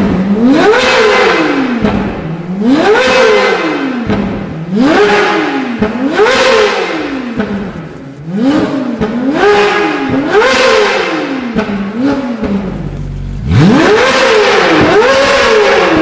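Ferrari 458 Italia's naturally aspirated V8 through an iPE F1 full exhaust system, revved again and again: each rev climbs quickly in pitch and sinks back over a second or two. Near the end the revs rise and are held high.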